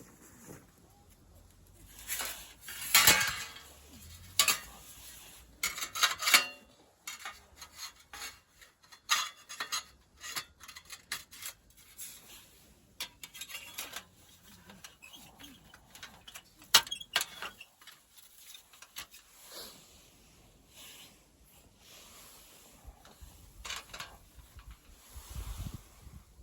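Metal camp cookware and utensils clinking and clattering as they are handled, a string of sharp knocks and clinks, busiest in the first few seconds.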